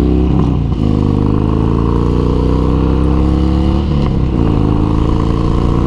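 Harley-Davidson motorcycle's V-twin engine accelerating through the gears, its pitch climbing steadily with a brief break at each upshift, about half a second and about four seconds in. Wind rushes over the helmet microphone.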